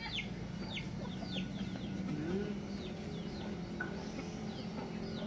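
Free-range village chickens clucking, with many short, falling high chirps over a steady low hum.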